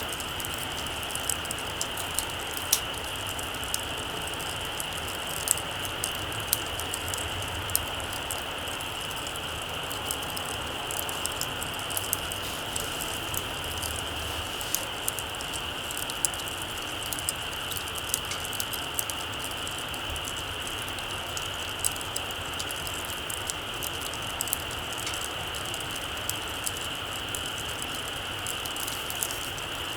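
Small campfire crackling, with many irregular sharp pops and snaps over a steady high hiss.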